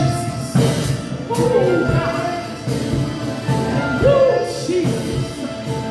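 Live gospel worship music: a singer's voice gliding between long held notes over a band with a steady beat.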